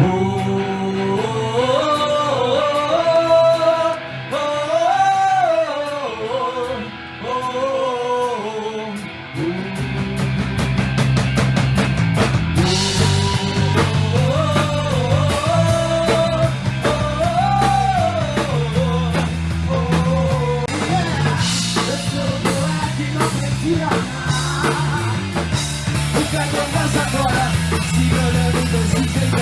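Live rock band playing with a lead singer. The voice and guitar start out lighter, then bass and drums come in fully about nine seconds in.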